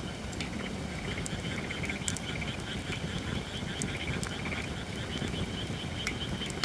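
Holly-wood campfire crackling, with a handful of sharp pops over a steady low rumble. Frogs keep up a fast, continuous trilling chorus behind it.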